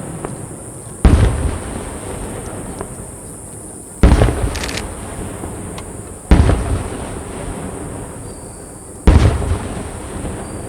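Large aerial firework shells bursting overhead: four sudden booms roughly two to three seconds apart, each followed by a long rolling echo, with a short crackle just after the second.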